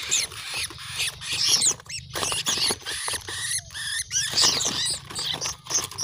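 Many quick, high, squeaky chirps and twitters from small birds, some sliding up or down in pitch, over a steady low rumble.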